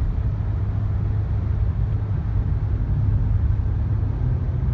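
Honda Odyssey minivan driving at highway speed, heard inside the cabin: a steady low rumble of road and engine noise.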